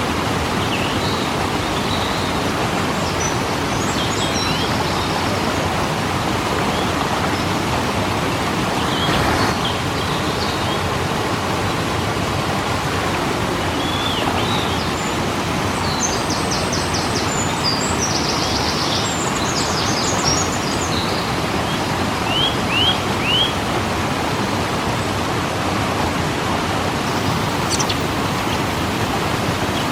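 Waterfall rushing in a steady, even roar of falling water. Small birds chirp now and then over it, with a cluster of short trills about halfway through.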